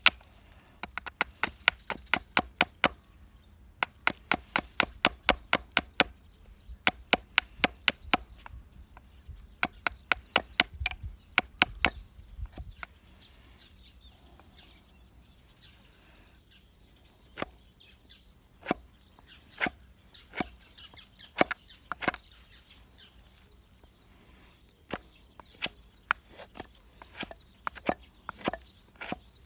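Sharp, hard knocks of a hand tool striking dead, resin-hardened pine wood. The first half has quick runs of about five strikes a second; the second half has slower single strikes a second or more apart.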